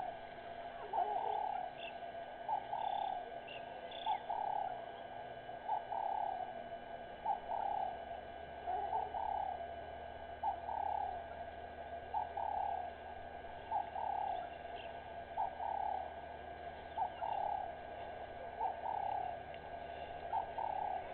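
A bird calling over and over, about once a second: each call is a short note followed by a longer, slightly falling one, in a low, cooing register.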